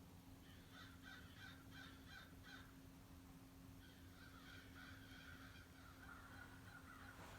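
Crows cawing faintly: a quick run of about seven caws in the first two seconds or so, then a longer, run-together stretch of cawing from several birds.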